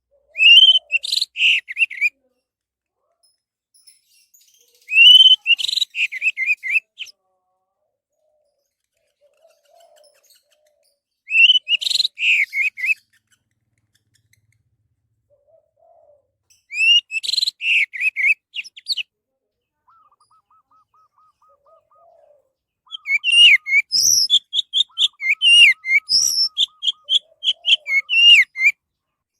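Orange-headed thrush singing: four short phrases of quick, rich whistled notes about five to six seconds apart, then a longer run of rapid notes near the end. A faint, fast ticking trill and soft lower notes from another bird sound between the phrases.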